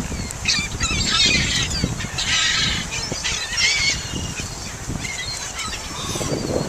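A flock of birds calling: many overlapping high, wavering calls for about three and a half seconds, then fewer and fainter calls, over a low rumble.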